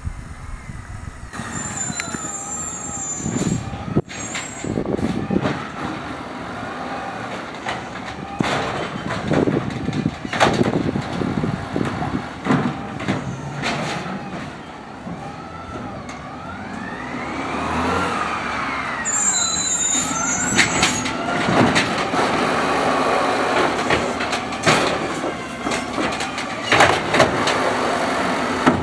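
Automated side-loader garbage truck collecting carts with its idle arm: the engine stays at idle while the hydraulics whine, rising and falling as the arm works. Sharp knocks and clanks of carts being grabbed, tipped and set down run throughout, thicker in the second half.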